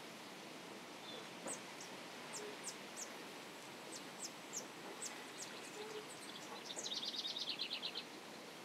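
Small birds chirping over a steady background hiss: a string of short, high, separate chirps, then a fast trill of rapidly repeated notes near the end.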